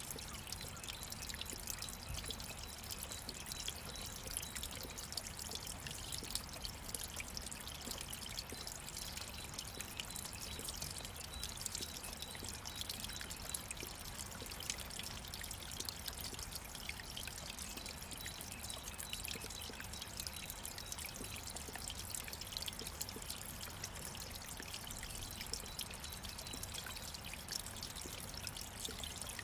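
Water running in a stream, trickling and splashing steadily.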